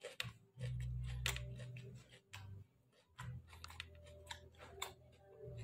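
Close-miked chewing of roasted pork and raw vegetables: sharp, wet mouth clicks and small crunches, scattered irregularly, with a low steady hum twice.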